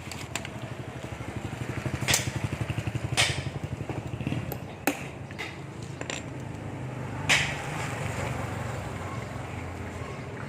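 A small engine running with a fast, even pulsing beat, stronger in the first half. Several sharp knocks of tools on metal come over it, the loudest about two, three and seven seconds in.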